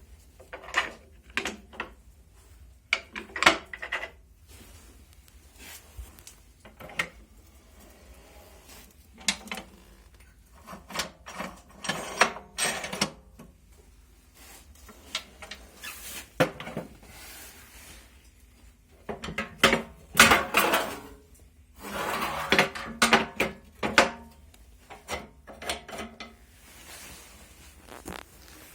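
Cast-iron stove parts being handled: doors and a drawer opened and closed, giving irregular metal clanks, knocks and scraping, busiest and loudest about two-thirds of the way through.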